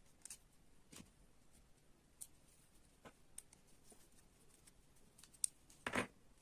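Scattered light clicks and taps of small construction-kit parts being handled, with one louder knock about six seconds in.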